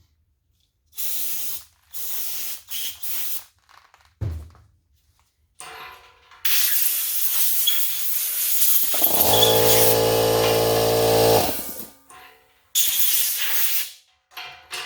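Loud bursts of pressurised air or spray hissing: three short blasts, then one long blast of several seconds, then a final short one. For about two seconds in the middle of the long blast a loud, low, pitched hum runs under the hiss.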